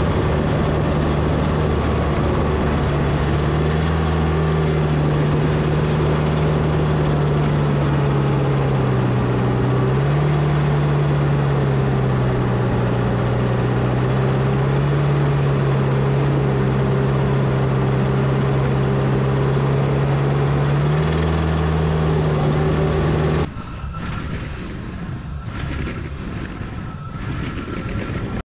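Volvo A25G articulated haul truck's diesel engine running steadily under way, its note stepping up and down a few times. About five seconds before the end the engine sound drops away suddenly, leaving a quieter rumble with a few knocks.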